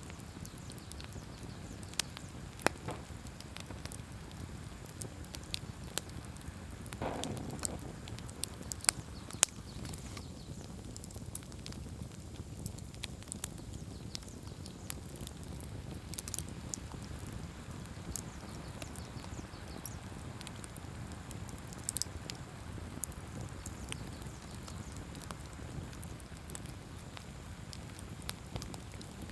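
Wood campfire burning: a steady low rush of flame with scattered sharp crackles and pops from the burning wood, a few of them much louder, and a brief louder rush about seven seconds in.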